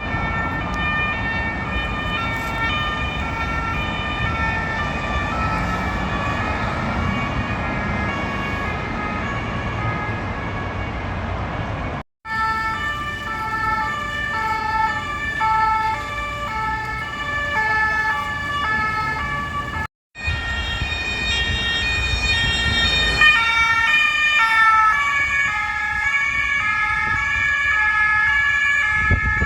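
French police two-tone sirens alternating steadily between two pitches as police vehicles drive past on an emergency run, over low traffic and engine rumble. The sound cuts out briefly twice, about 12 and 20 seconds in, where the clips change.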